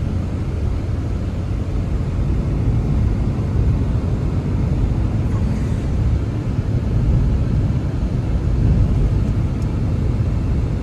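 Strong wind blowing, a steady low rumble that swells and eases a little, with no distinct tones.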